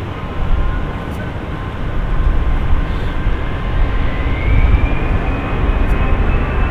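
Jet airliner engines: a heavy low rumble that gets louder about two seconds in, with a high whine that rises in pitch through the middle and then holds.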